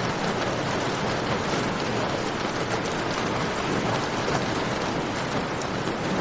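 Steady rain falling in a cave, a dense even hiss with many fine drip ticks throughout.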